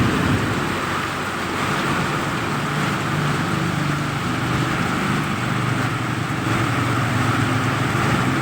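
Heavy rain pouring in a thunderstorm with strong wind, a steady rush of noise with a low rumble underneath that swells in the middle.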